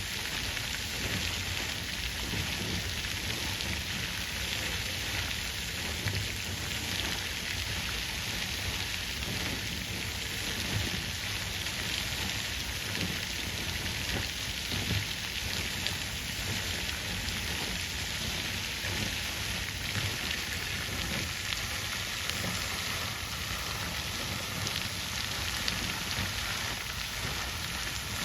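Water fountain splashing steadily: an even hiss of falling water with a low rumble underneath.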